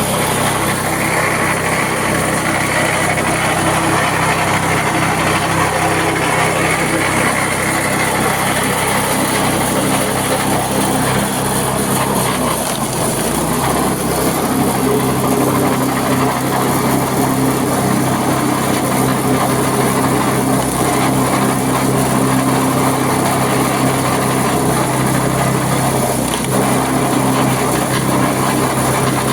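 Petrol-engine wood chipper running steadily, its engine note dropping and changing about halfway through and briefly again near the end.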